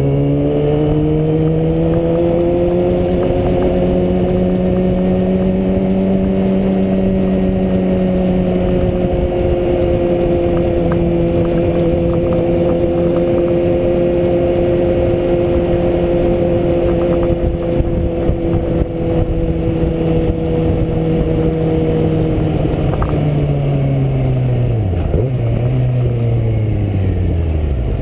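2009 Kawasaki Ninja ZX6R's inline-four engine heard from an onboard mount while riding: the engine note climbs after a gear change at the start, then holds steady at a cruising speed for most of the time. Over the last few seconds it drops in steps as the bike slows and downshifts, with a dense low rumble of wind on the microphone throughout.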